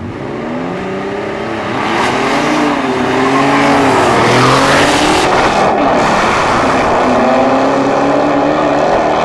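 A car engine revving hard, its pitch rising and falling several times, with a dense rushing noise that builds about two seconds in.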